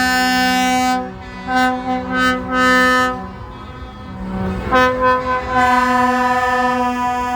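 Multi-tone air horn on a truck, train-horn style, sounding a chord: a held blast, then several short toots, then a long held blast from about five seconds in.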